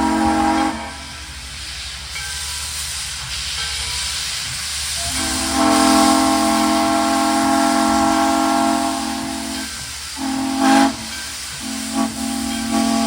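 Locomotive whistle sounding a chord of tones: a blast that ends about a second in, a hiss for a few seconds, then one long blast and several short blasts near the end.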